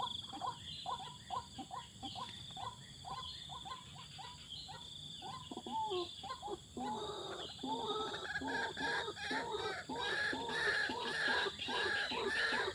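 Animal calls: rapid short chirps that grow louder and denser about halfway through, over a steady high-pitched tone.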